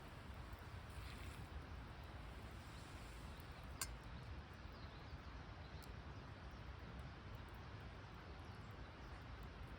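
Faint, steady outdoor background noise with one sharp click about four seconds in and a fainter tick about two seconds later.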